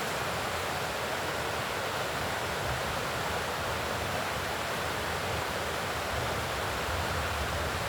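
A steady, even rushing hiss, like running water.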